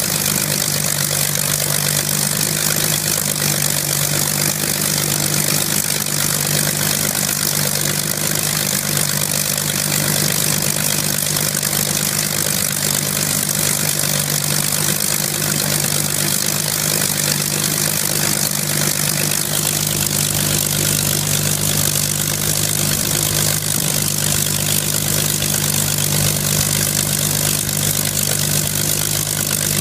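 Hispano HA-1112 Buchon's Rolls-Royce Merlin V12 aero engine idling steadily on its first run in 45 years. About two-thirds of the way in, a faint high whine drops out and the low rumble grows.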